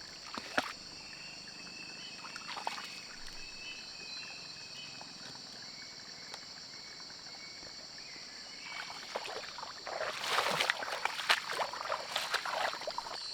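A steady high-pitched night chorus of insects over wet countryside. From about nine seconds in, rustling and splashing grows louder as someone moves through wet vegetation and shallow water.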